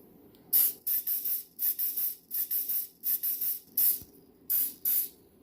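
Canola oil cooking spray being sprayed onto raw chicken wings in a rapid series of about a dozen short hissing squirts.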